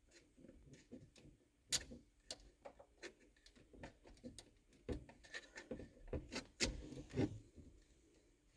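Irregular small clicks and knocks of hard plastic as a steering wheel's spring-loaded horn button is twisted and worked loose, with a few sharper clacks among them.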